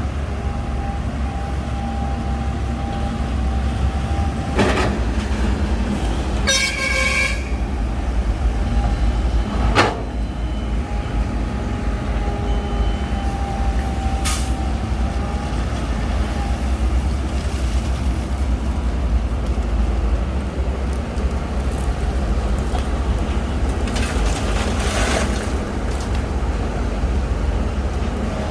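Heavy diesel earthmoving machinery running with a steady low rumble, with a few sharp knocks and a brief high-pitched squeal a few seconds in.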